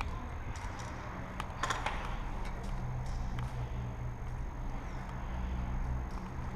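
Movement noise of an airsoft player advancing on foot: a low rumble of handling and body movement on a worn camera, with a few faint clicks or snaps about a second and a half in.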